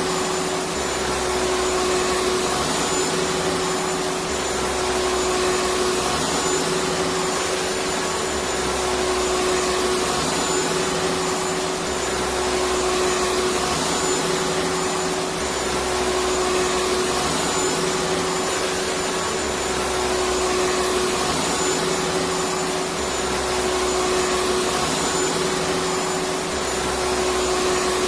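Electric vacuum cleaner running steadily: a continuous rush of air with a constant motor tone and a faint high whine.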